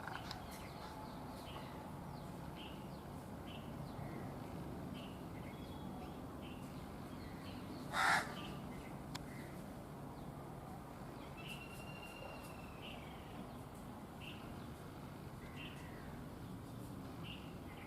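Wild birds calling: a small bird repeats short high chirps, and one loud harsh caw comes about halfway through.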